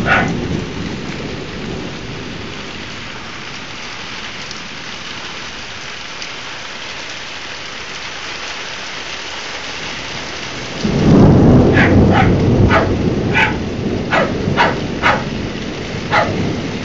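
Heavy rain falling steadily in a thunderstorm. About eleven seconds in, a loud thunderclap breaks into a deep rumble that carries on to the end, with a run of short sharp taps over it.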